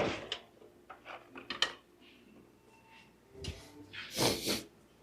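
Hands working a car's engine wiring harness free: a sharp knock at the start, a quick run of small plastic clicks, then a longer scraping rustle of the harness being pulled near the end.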